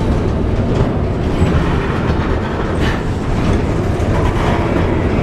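Freight train rolling past, a steady loud rumble of wheels on rails with some clatter.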